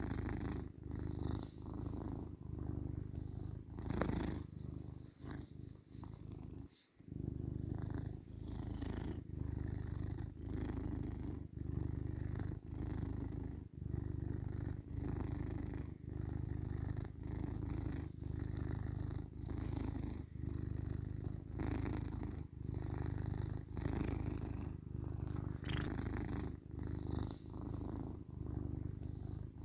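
Tabby cat purring, a low rumble that swells and fades about once a second with its breathing. A brief sharp click about four seconds in and a short break in the purr about seven seconds in.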